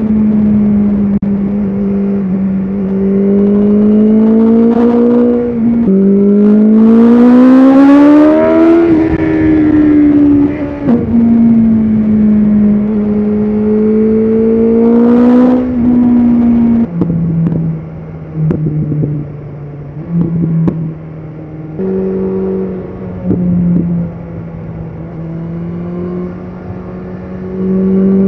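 BMW S1000RR inline-four engine on the road, rising steeply in pitch under hard acceleration about six seconds in, then holding steady revs through curves. In the second half the revs drop and the throttle is shut and reopened several times in quick succession, with wind rush at the loudest moments.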